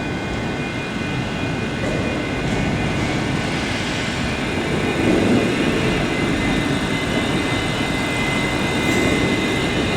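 Scotrail Class 380 electric multiple unit running slowly into a platform: a steady rumble with a few thin steady whines above it, growing a little louder about halfway through.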